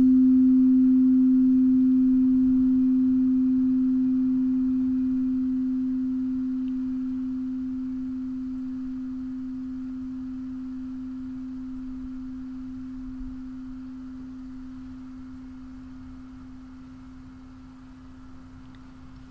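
A singing bowl's single low tone ringing on and slowly dying away.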